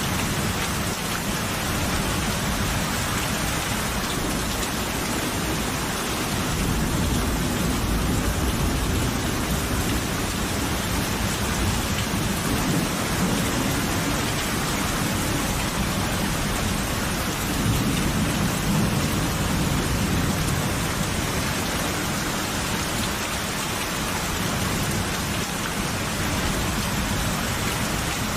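Steady heavy rainfall with rolling thunder rumbling low underneath, swelling twice: once a few seconds in and again past the middle.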